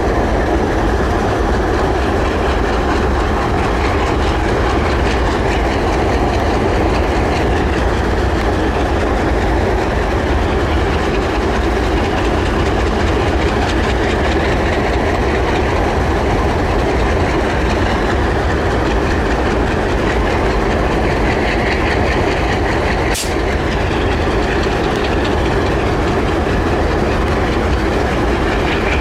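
Older diesel locomotives pulling a train out of a yard, engines running under load, with a steady rumble of the engines and rolling cars. A single sharp click about two-thirds of the way through.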